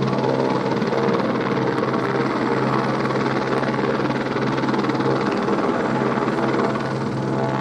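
Helicopter running steadily, a continuous rotor and engine noise with a strong low hum.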